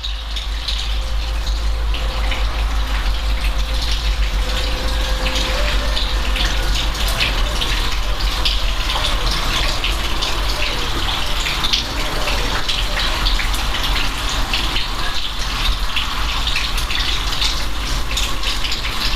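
Steady rain with many fine drop impacts over a deep rumble, cutting in abruptly at the start.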